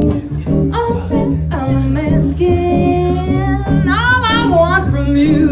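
A band playing an instrumental break: steady bass and chords under a lead melody that starts about a second and a half in and wavers as it bends.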